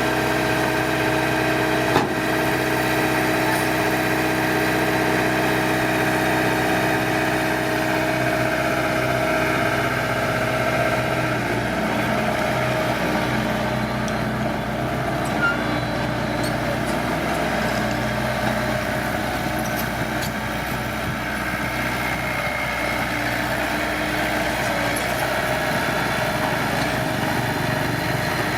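Heavy earthmoving machine's diesel engine running steadily, its even tone turning rougher about a third of the way through. There is a sharp knock about two seconds in.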